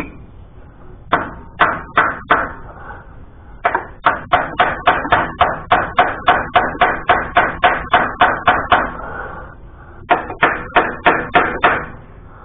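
Repeated sharp knocks at about four a second in three runs: a few strikes, then a long run of about twenty, then about seven near the end, from teardown work on a Massey Ferguson 165 tractor.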